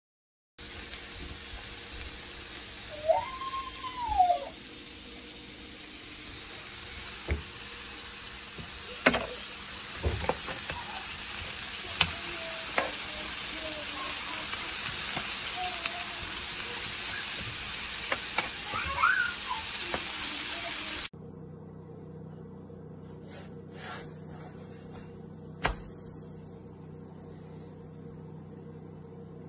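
Food sizzling on an electric griddle as a steady hiss, with occasional sharp clicks of a spatula on the plate. About 21 seconds in it cuts abruptly to a much quieter stretch with a low hum and a few light clicks.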